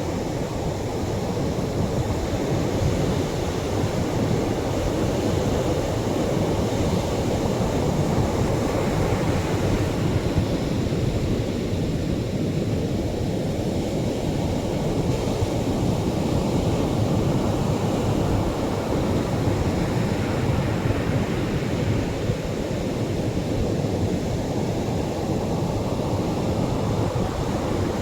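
Atlantic surf washing onto a beach: a steady, low rumble of breaking waves that swells and eases slowly, with no single sharp crash.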